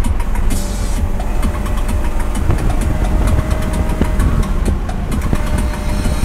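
Race car engine heard from inside the cabin, running steadily at high revs in fourth gear at about 90 mph under throttle, with heavy road noise and many small rattles.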